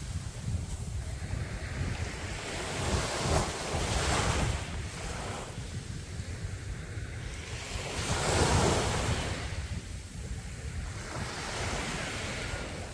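Sea waves breaking and washing onto a sandy beach, surging every few seconds with the loudest breaks about four and eight seconds in. Wind rumbles on the microphone throughout.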